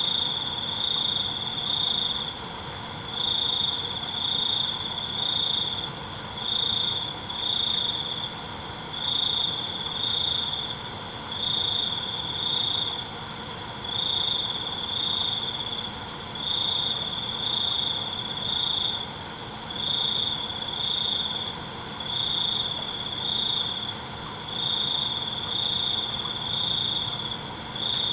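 Night chorus of crickets and other insects: one loud, high chirping call comes in short groups about every two seconds over steady, higher-pitched trilling.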